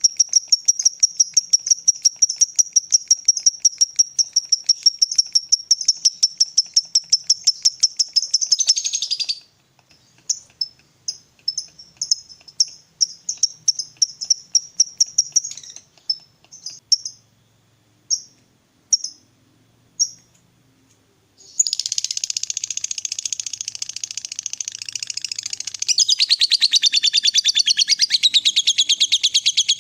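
Lovebird singing its long chattering trill ('ngekek'): a fast, even run of high notes that breaks off about nine seconds in. Short separate notes follow, slowing with growing gaps and stopping for a moment. From about 21 seconds in, a dense, busy chattering song runs on.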